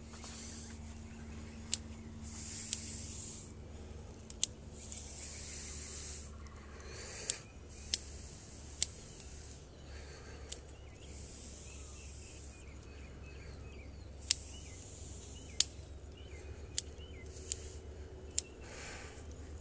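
Bonsai trimming scissors snipping shoots off a parrot's beak bonsai, about a dozen sharp single snips spaced a second or more apart. Soft rustling of the foliage comes in between the snips.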